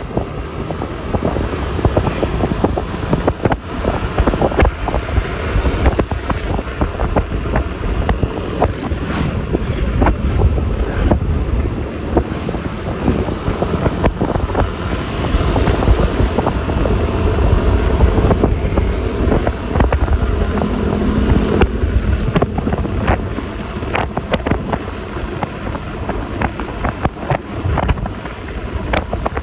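Wind buffeting the phone's microphone on a moving Yamaha Lexi LX 155 scooter, over a steady rumble of engine, tyre and traffic noise, with frequent short crackles from the wind.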